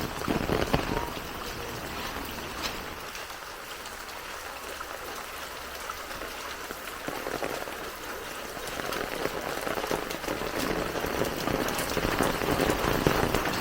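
Heavy rain falling steadily, easing slightly a few seconds in and growing louder again near the end.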